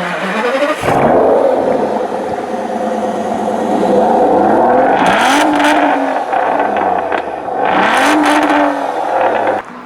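Sports car engine revving and accelerating, its pitch climbing sharply at the start and rising and falling again twice, about halfway through and near the end.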